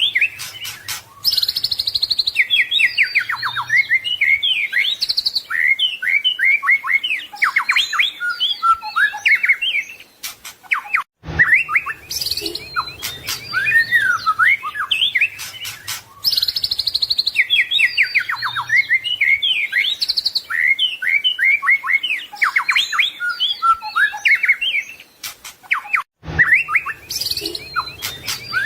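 White-rumped shama (murai batu) singing a loud, varied song of rapid whistled phrases, trills and gliding notes. The same passage repeats about every 15 seconds, with a brief break about 11 seconds in and again near the end: a looped training recording.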